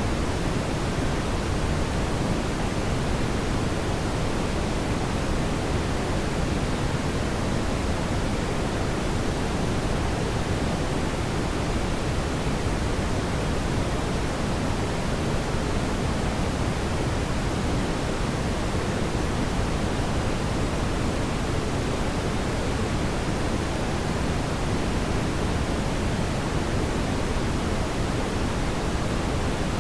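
Steady, even rushing noise, fuller in the low end, with no crackles or pops.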